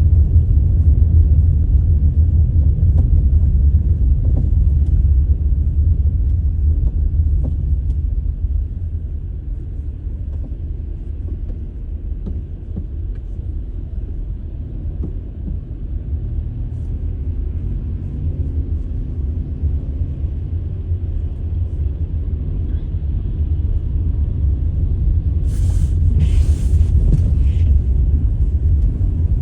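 A steady low rumble, a little quieter in the middle, with two or three brief sharp rustles or clicks near the end.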